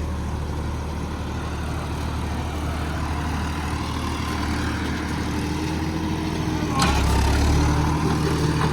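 Modified John Deere 5405 tractor's diesel engine running steadily. A click comes nearly seven seconds in, after which the engine runs louder.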